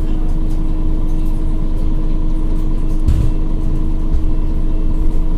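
Scania Omnicity city bus's diesel engine running, heard from inside the passenger cabin as a steady low rumble with a constant hum, and a single low thump about three seconds in.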